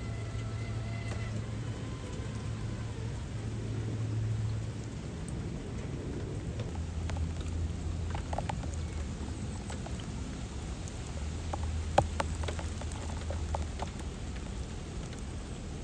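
Steady rain falling, with the low hum of a Traxxas TRX-4 RC rock crawler's motor and drivetrain coming and going as it drives, and a few sharp clicks, one louder knock about twelve seconds in.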